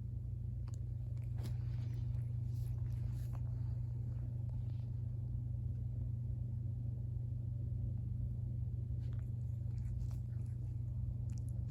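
Domestic cat purring steadily and unbroken, with a few faint clicks and rustles over it.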